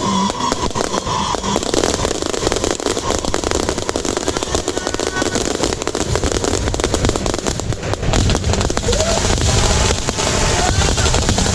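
Aerial fireworks going off in a dense, continuous barrage of bangs and crackles, growing louder about eight seconds in.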